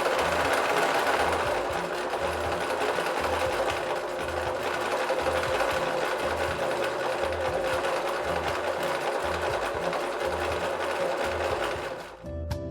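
Brother electric sewing machine running steadily at speed, stitching without a break, then stopping about half a second before the end.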